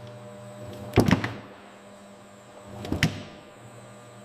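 Low steady machine hum with a heavy hit twice, about two seconds apart, each hit coming after a short swell.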